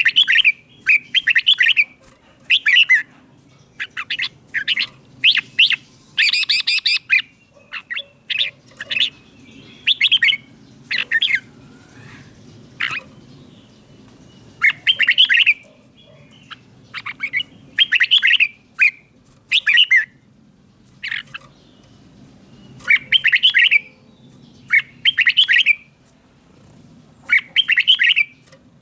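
Red-whiskered bulbul singing: short, bright, warbling phrases, often two in quick succession, repeated with pauses of a second to a few seconds between them, over a faint low hum.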